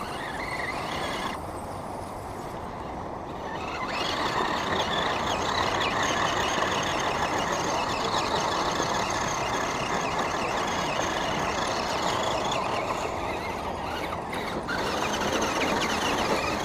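Small electric motors and gear drives of RC crawler trucks whining over a steady, dense noise, getting louder about four seconds in.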